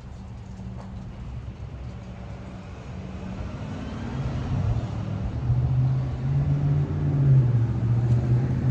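Street traffic: a motor vehicle's engine hum growing louder from about three seconds in as it approaches, loudest near the end.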